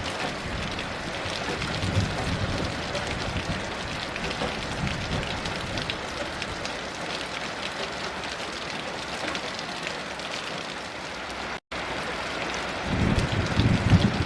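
Heavy rain falling steadily, a dense hiss of drops. It cuts out completely for an instant near the twelve-second mark, and a low rumble of distant thunder swells in the last second or so.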